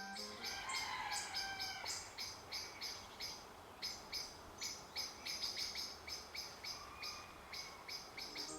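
Wild birds calling in a field recording: short, sharp chirps repeated at about three a second over faint steady background noise, with a few sliding calls in the first two seconds.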